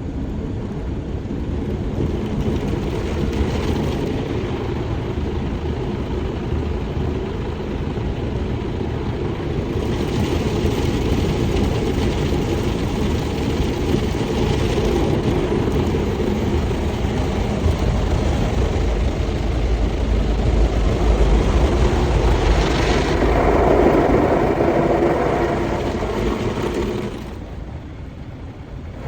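Automatic car wash machinery running: a loud, steady rush of noise over a deep rumble, changing character about ten seconds in and again near the end before dropping off suddenly.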